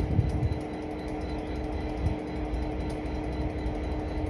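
Two coupled Class 387 electric multiple units passing at low speed: a steady low rumble with a constant hum, a few heavy thuds at the start and a single knock about two seconds in.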